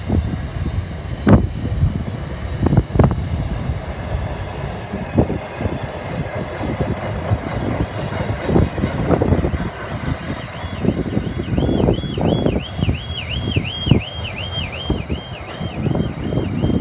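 Freight train rolling past, a steady rumble with repeated clacks of wheels over rail joints. About two thirds of the way in, an electronic warbling alarm starts, wavering up and down about two to three times a second: a car alarm going off.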